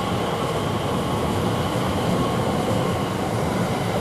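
Elizabeth line Class 345 electric train pulling away from the platform, a steady rumble with no break.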